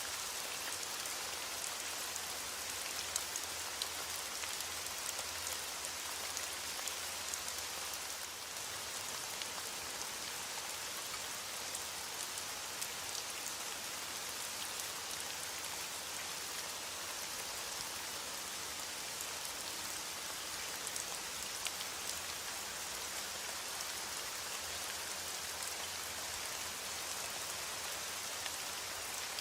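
Steady rain falling, with many small drops pattering on a surface over an even hiss.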